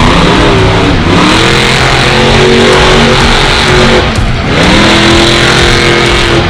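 Monster truck engine revving hard, its pitch climbing about a second in and again a little past halfway, held at high revs in between.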